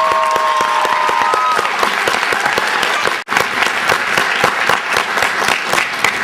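Audience applauding the end of a stage play, a dense steady clapping with a few faint whistles in the first second or so; the sound drops out for an instant about three seconds in.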